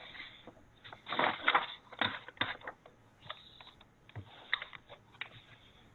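Irregular clicks and taps of typing on a computer keyboard, heard over a video-call connection.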